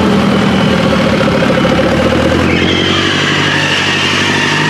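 Tractor engine running under load, its note shifting about halfway through.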